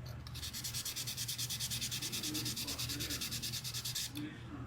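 Very fine sandpaper rubbed lightly over a gyro compass pump rotor in quick, even back-and-forth strokes to clean off discoloration. The strokes stop about four seconds in.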